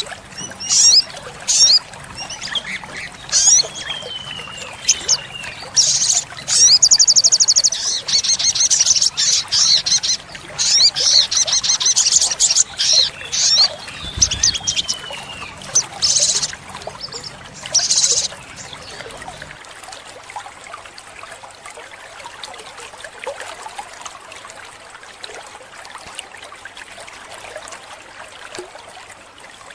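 Olive-backed sunbird calling: sharp high chirps, a couple of falling whistled notes, and a long fast rattling trill in the middle. The calls stop about two-thirds of the way through, leaving only a soft steady hiss.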